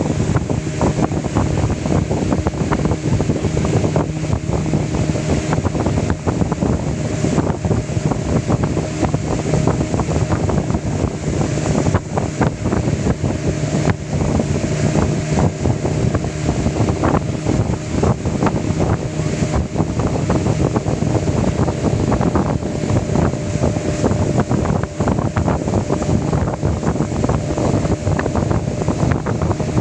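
A motor running steadily with a constant hum, under heavy wind noise on the microphone.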